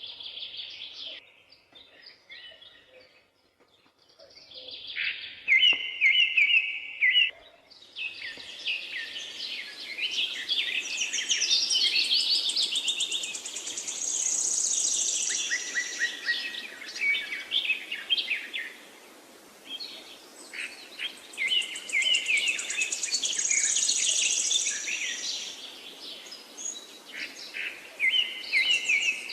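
Songbirds chirping and singing, one quick twittering phrase after another, with a steady background hiss that comes in about eight seconds in.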